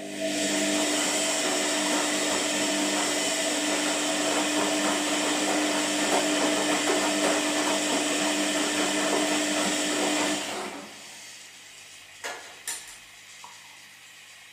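Washing machine running with a steady whirring rush and a low hum for about ten seconds, then stopping, followed by two short clicks.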